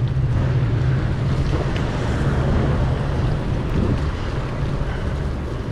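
Strong wind buffeting the camera's microphone: a steady low rumble with a hiss over it.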